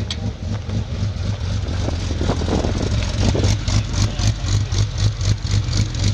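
Car engine running close by with an even, pulsing exhaust beat of about four or five pulses a second, which grows stronger about halfway through.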